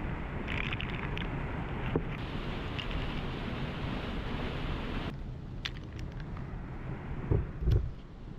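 Steady rush of a waterfall that drops suddenly in level about five seconds in, with a few faint clicks and two heavy thumps near the end.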